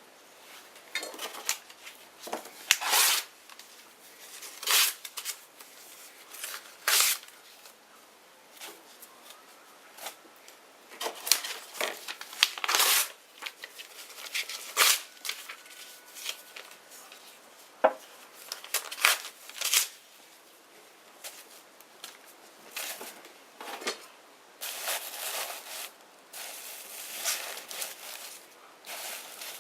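Small bonfire crackling: irregular sharp pops and snaps with short hissing spells, a few of the snaps much louder than the rest.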